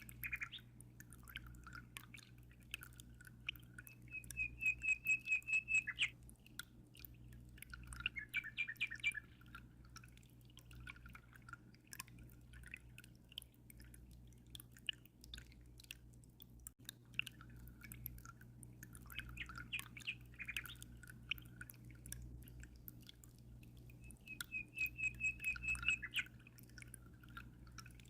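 Birds chirping and calling, with a fast, rapid-pulsed trill twice, over a low steady hum and scattered faint water drips.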